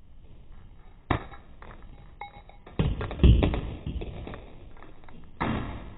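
A series of irregular taps and knocks, like handling noise, with a louder dull thump about three seconds in and another knock near the end.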